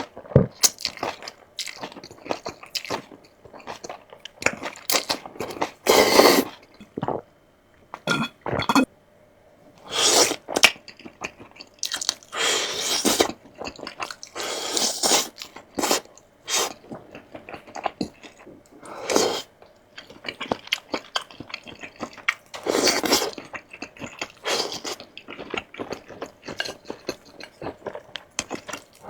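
A person eating crunchy food close to the microphone: irregular crunching bites and chewing every second or two, with a few longer crunchy stretches.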